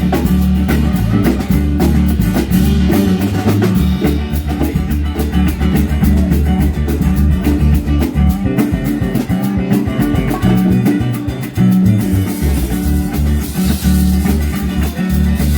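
Live band playing an instrumental break in a blues song: guitar over a drum kit, with steady low bass notes.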